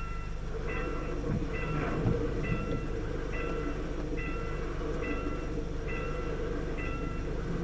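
An electronic warning tone rings out about once every second, each ring short and multi-toned, over a steady low rumble.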